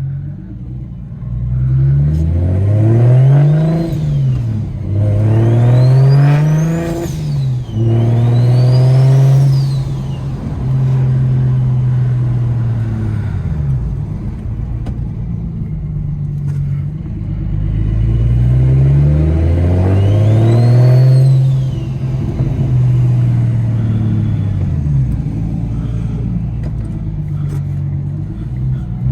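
BMW 335i's N54 straight-six with a DocRace single-turbo kit, accelerating hard through the gears. The revs climb and drop back at each upshift, twice in quick succession, then the engine settles into a steady cruise before a second pull about two-thirds of the way through. A high whine rises and falls with the revs.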